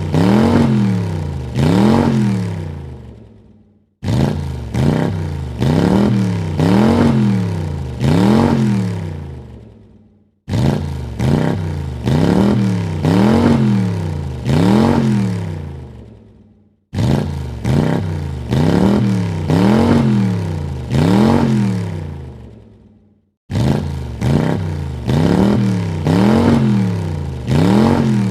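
A car engine blipped three times in quick succession, each rev rising and falling in pitch, then dying away to a brief silence. The same three-rev sequence repeats four more times, identically.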